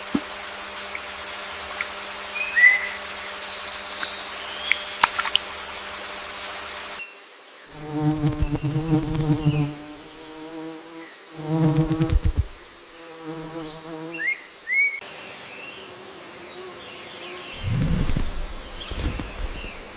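Forest ambience: scattered short bird chirps over a steady hiss. From about eight seconds in, a loud insect-like buzz comes in three bursts of one to two seconds each. Low rumbling follows near the end.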